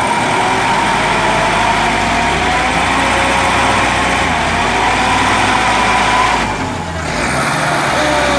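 Truck engine running steadily, with a brief drop in level about six and a half seconds in before it picks up again.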